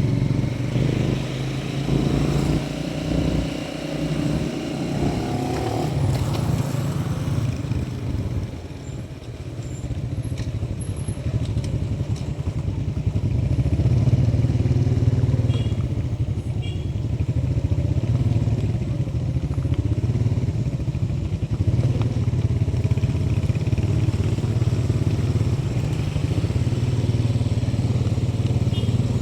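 Motorcycle engine running under way on the road, with wind and road noise. The engine eases off about eight seconds in and picks up again a few seconds later.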